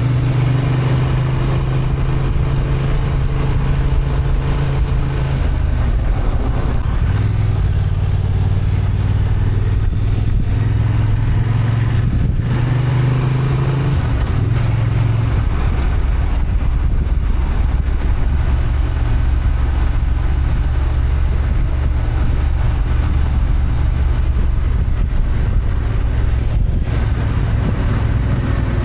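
Honda XL750 Transalp's 755 cc parallel-twin engine running steadily under way. Its pitch drops a step about five seconds in and again at about fifteen seconds, then holds lower.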